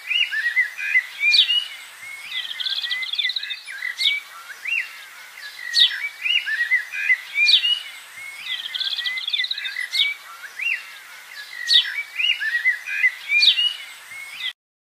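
Birdsong: chirps and quick whistled notes in a pattern that repeats about every four seconds, cutting off suddenly near the end.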